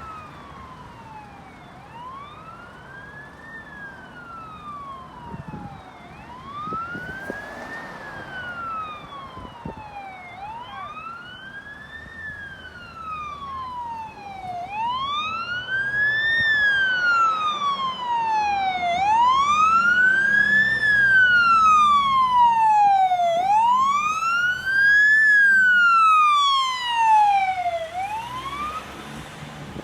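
Fire engine siren wailing, its pitch rising and falling about every four and a half seconds, growing louder as the engine approaches and stopping shortly before the end.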